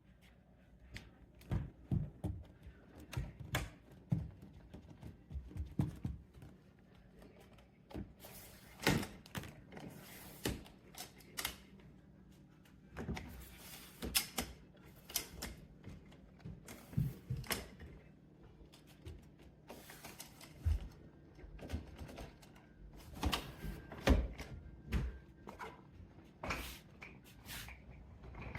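Irregular clicks, taps and knocks, several a second at times, from a polycarbonate hard-shell suitcase being handled.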